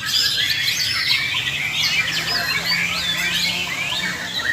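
Several white-rumped shamas singing at once: a dense, overlapping jumble of quick whistled phrases, rising and falling notes and chattering, over a low steady hum.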